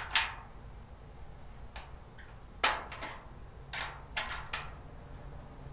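Parts of a 3-tier storage cart being handled and fitted together during assembly: a run of about seven sharp, separate clicks and knocks, the loudest a little over two and a half seconds in.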